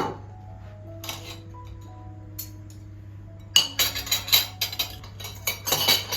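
Kitchenware clinking and clattering, dishes and utensils knocking together: one sharp knock at the start, then a quick run of clinks from about halfway through, over soft background music.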